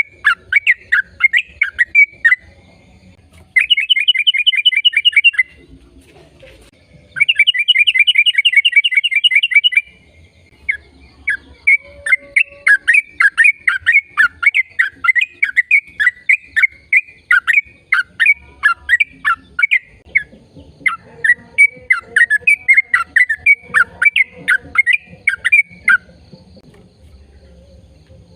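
A bird calling in loud, rapid chirps, with two fast trills of about two seconds each in the first ten seconds, then a long run of quick chirps that stops a couple of seconds before the end.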